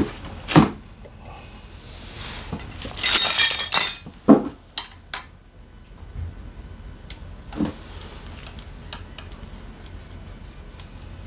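Metal tools and parts being handled: a few knocks and clinks, a loud jangling rattle about three seconds in, then scattered light ticks.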